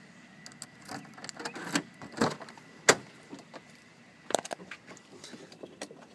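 Handling noises around a car: a scatter of short clicks and knocks, the sharpest a single loud click about three seconds in.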